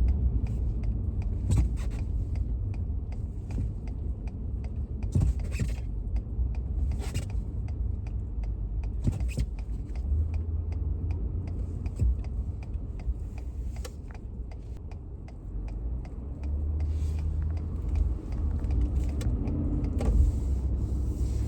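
Vehicle cabin noise while driving: a steady low rumble of engine and road, with many short ticks and clicks scattered through it.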